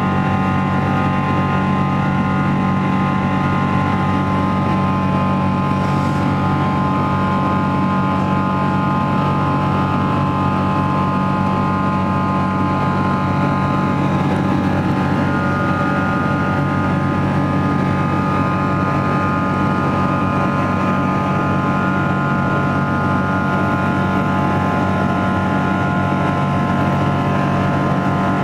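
Cabin noise of a Boeing 777-200ER climbing out: the steady drone of its Rolls-Royce Trent engines, holding several unchanging tones over a rush of air.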